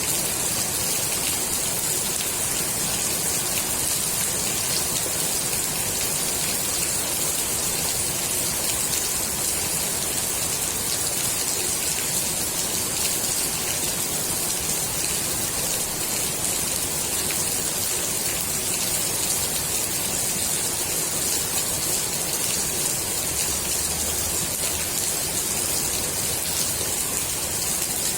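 Steady rain falling onto the water of a swimming pool, an even hiss of countless drops with fine patter.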